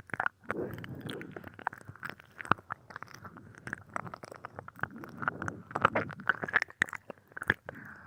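Ear-licking on a binaural microphone: close, wet mouth and tongue sounds, irregular clicks and slurps.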